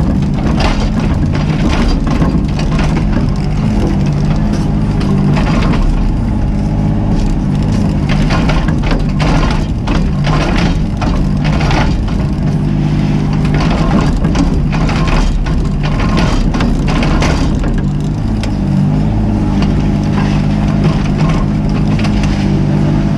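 Mini excavator's diesel engine running steadily under load, with frequent irregular cracks and crunches as the bucket breaks and scrapes through debris.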